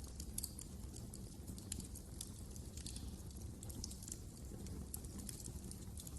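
Fire crackling in a fireplace: irregular sharp pops and snaps, several a second, over a low steady rumble of the flames.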